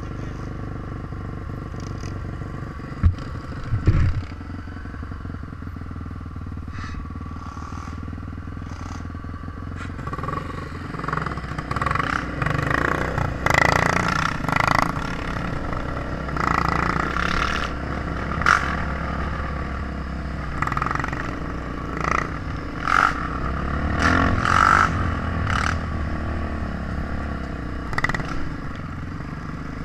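Trail motorcycle engine running steadily, with two sharp knocks about three and four seconds in, then louder uneven rattling and clatter over the engine from about a third of the way through.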